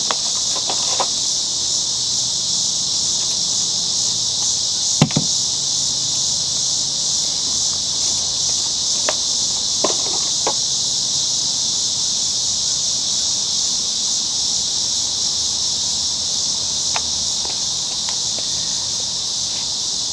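Steady high-pitched buzz of an insect chorus, with a few light clicks and one sharper knock about five seconds in from the mower being handled.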